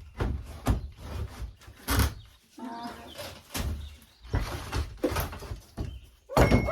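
Wall panelling being pulled and worked loose by hand: a series of irregular knocks and thumps, with a brief squeak about halfway through.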